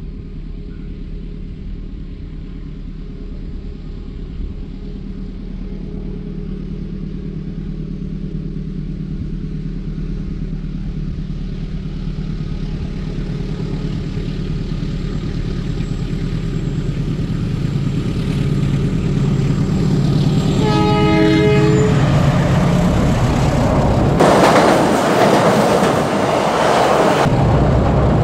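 Approaching diesel-hauled passenger train: a low engine hum that grows steadily louder, one horn blast of about a second and a half some three-quarters of the way in, then a loud rush as the locomotive passes close, with the coaches rolling by after it.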